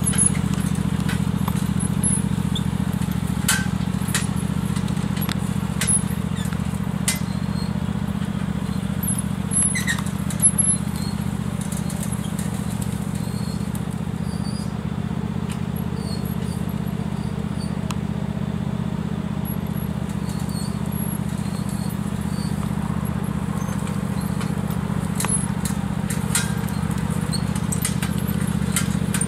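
Lawn tractor engine running at a steady pitch, a low hum, with a few sharp clicks and knocks scattered through it.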